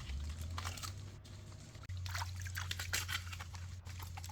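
Water sloshing and trickling in short, irregular splashes, over a steady low hum.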